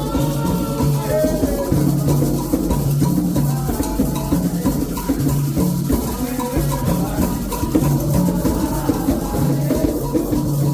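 Candomblé ritual music: atabaque hand drums keeping a steady repeating rhythm, a shaken rattle, and voices singing over them.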